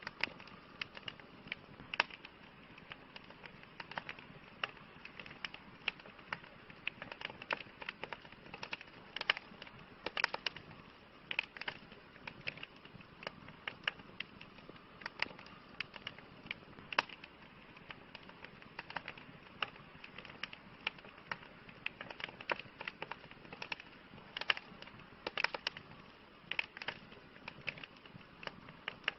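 Wood campfire crackling: a steady soft hiss under many irregular sharp pops and snaps, some louder than the rest.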